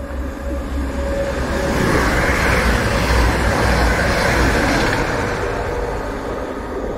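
East Midlands Railway Class 222 Meridian diesel express train passing through the station at speed. Its engine rumble and wheel and air rush build up as it nears, are loudest about two to five seconds in as the coaches go by, then ease slightly.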